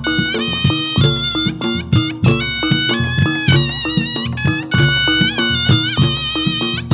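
Reog Ponorogo gamelan accompaniment for jathilan dance: a shrill double-reed slompret melody with wavering held notes over steady drum and gong strokes.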